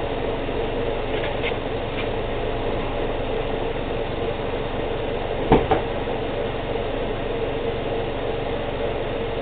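2012 Subaru Outback engine idling steadily, kept running to bring the CVT fluid up to its checking temperature. A single sharp knock sounds a little past halfway through.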